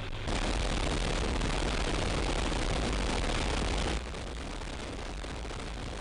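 C-130 Hercules turboprop engines and propellers running as a steady rush of noise over a low rumble. It gets abruptly louder about a third of a second in and drops back down about four seconds in.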